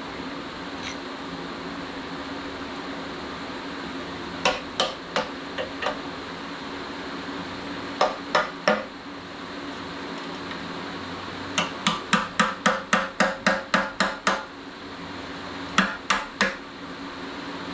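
Hammer blows during the engine teardown, in bursts: about five, then three, then a quick run of about a dozen, then three more, over a steady low hum.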